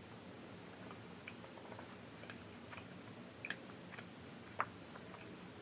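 A child chewing a mouthful of sushi with her mouth closed: faint, soft wet mouth clicks, scattered irregularly, one a little sharper about four and a half seconds in.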